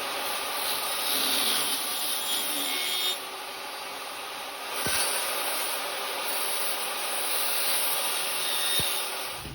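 Table saw mitering 16-gauge sheet-steel strips in two cuts. The cutting noise eases about three seconds in, the saw runs more quietly for a moment, and a second cut starts about five seconds in.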